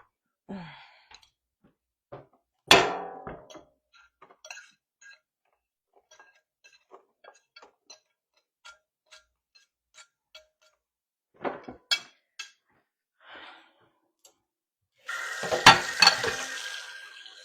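Pots and dishes clattering. A loud clank rings about three seconds in. Light scattered clicks follow, then a couple more clanks about twelve seconds in, and a louder spell of clattering with a rushing noise near the end.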